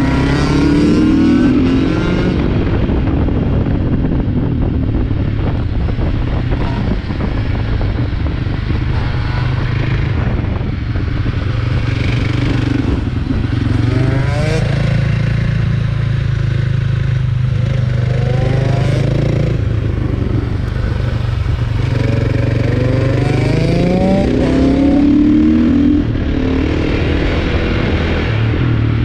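Supermoto motorcycle engine heard from on board while riding a kart track, running steadily and revving up several times as it accelerates out of corners, with wind rushing over the microphone.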